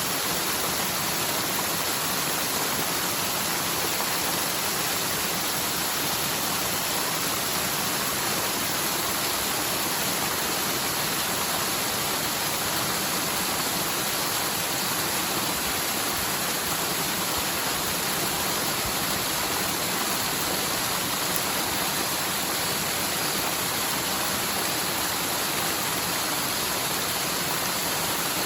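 Mountain forest stream in flood, its rain-swollen water rushing and cascading steadily downhill. It is a normally near-dry stream running high after typhoon rains.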